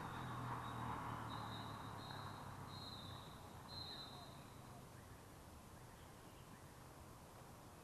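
Faint outdoor ambience with a bird giving a series of short, high, steady notes over the first few seconds, over a low hum; both fade away.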